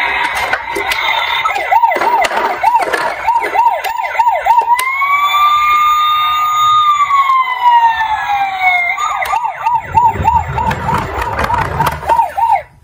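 Electronic emergency-vehicle siren on a fast yelp, switching about five seconds in to a long wail that rises, holds and slides down, then back to the fast yelp. Short clicks sound through it.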